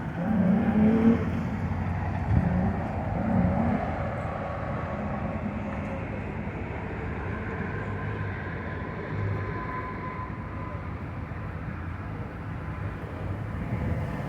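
Steady low rumble of motor vehicles, with a faint voice in the first few seconds.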